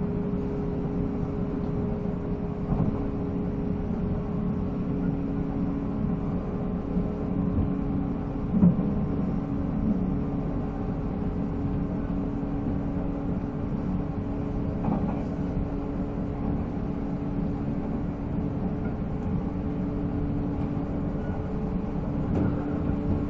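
Running sound of a 485-series electric multiple unit heard on board: the MT54 traction motors and gearing humming at a steady pitch over the rumble of the wheels on the rails. A louder knock comes about nine seconds in.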